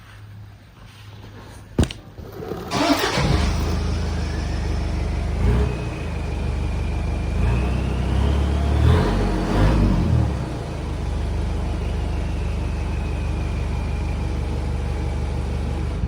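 Toyota 1KZ-TE 3.0 L four-cylinder turbo-diesel, breathing through a 3-inch stainless turbo-back exhaust, starts about three seconds in after a sharp click. It then idles with a low rumble and is blipped a few times. A turbo whine rises during the revs and slowly falls away as it settles back to idle.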